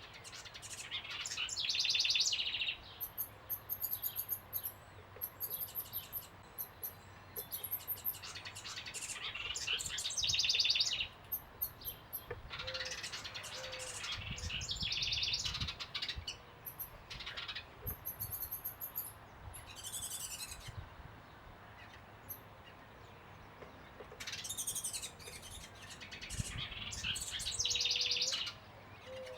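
Several small birds calling in bouts of rapid chattering trills and thin, very high chirps, with a few short low hoot-like notes near the middle and end.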